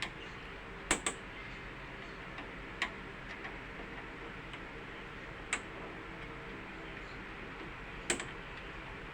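Sharp metallic clicks of hand tools on breaker panel terminals, about six at irregular intervals as loose terminal screws are retightened, over a steady background hum.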